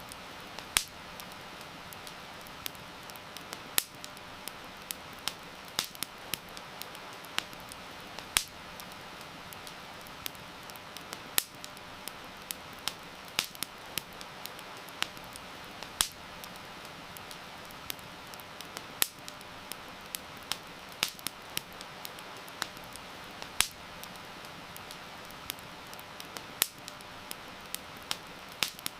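Wood fire crackling, with irregular sharp pops and snaps over a steady hiss of heavy rain.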